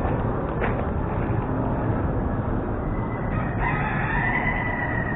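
A bird call: one long, held cry beginning about three and a half seconds in, over a steady background hiss, with a single sharp knock under a second in.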